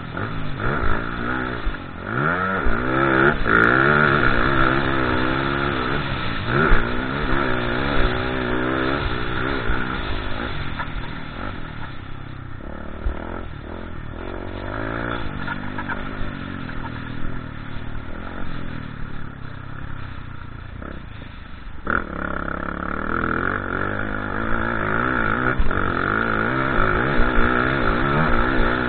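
Motocross bike engines revving up and down as the bikes ride the track, the pitch rising and dropping with throttle and gear changes. They fade somewhat midway, then grow louder again.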